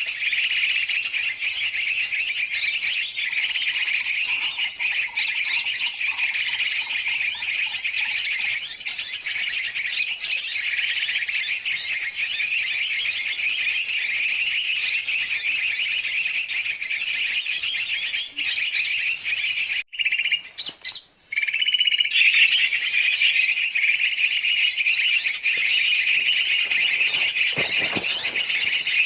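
Dense, continuous chatter of many birds calling at once, large and small species mixed: a recorded bird-lure call played to draw yellow-vented bulbuls and other birds in. The chorus cuts out briefly about twenty seconds in, then resumes.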